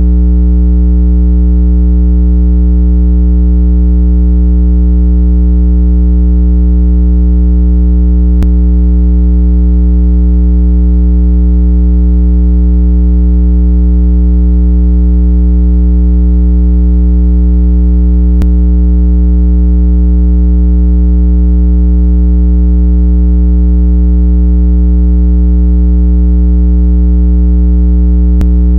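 Loud, steady, low-pitched electronic test tone with a buzzy edge of overtones, unchanging in pitch and level. It is a speaker water-eject tone, played to vibrate earbud and phone speakers so that trapped water is pushed out.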